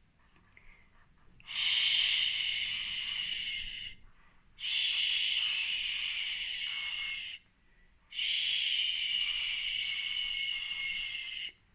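A woman saying a long drawn-out 'shh' three times, each held for about three seconds with short pauses between: the 'sh' phonics sound spoken for children.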